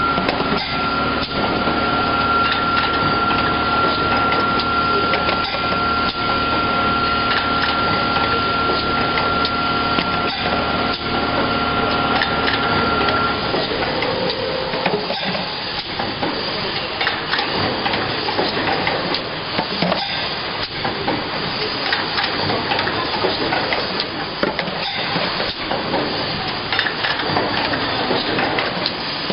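Automatic plastic bottle making machine running: a continuous hiss with irregular clacks and knocks, and a steady high whine that cuts off about halfway through.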